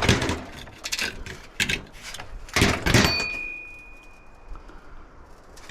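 A power saw cutting into metal scrap in harsh clattering bursts, the last one about three seconds in leaving a thin metallic ring that fades away, after which the tool goes quiet: the tool's belt has just blown on a bent piece it was cutting.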